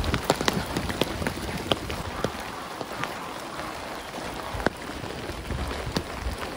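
Steady heavy rain falling, with scattered sharp drops striking close by.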